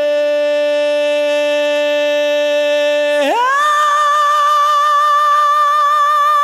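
Singing voice holding the song's final word "rain" as one long steady note, then jumping up to a higher note with vibrato about three seconds in and holding it.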